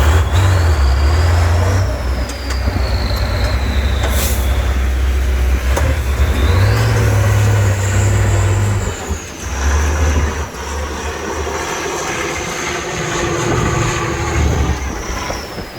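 Heavy trial truck's diesel engine working hard, its low rumble surging and easing, with a high whine rising and falling above it. A brief hiss comes about four seconds in.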